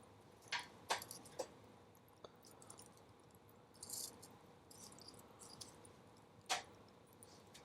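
Wood bonfire crackling: scattered sharp pops and snaps at irregular intervals with soft hissing in between. The loudest snaps come about a second in and again near the end.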